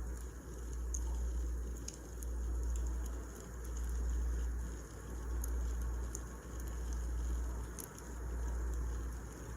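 Wood fire burning, with scattered sharp crackles and pops over a low rumble that swells and fades about every second and a half.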